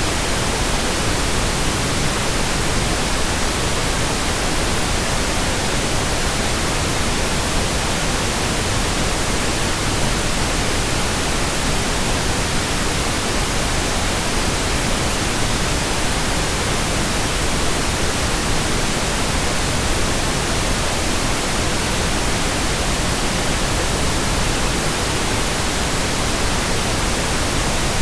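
Steady white noise: an even, unbroken hiss spread across all pitches, with no changes in level.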